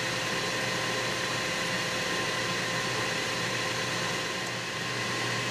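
Ninja Foodi Grill running on its high grill setting with the lid closed: a steady whir of its fan with a faint hum.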